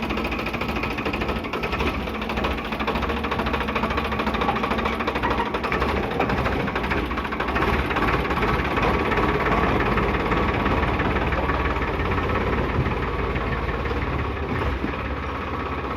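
Diesel engine of heavy machinery (a tractor or bulldozer) running steadily with a rapid knocking beat, a little louder around the middle.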